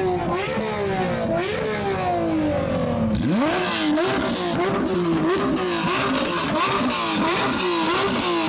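Porsche GT3 flat-six engine being revved: the revs fall away slowly, then about three seconds in it climbs sharply and is blipped up and down in quick repeated revs, about two a second.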